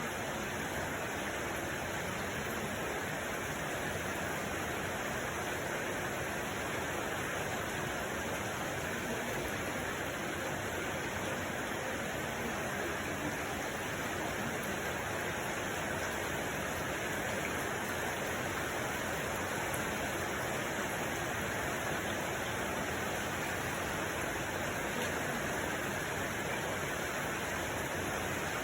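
Steady, unchanging rushing noise with no separate sounds in it.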